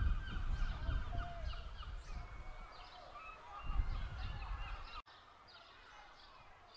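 Birds calling in many short, quick notes over a low rumble. About five seconds in the rumble cuts off suddenly and the birds go on more faintly.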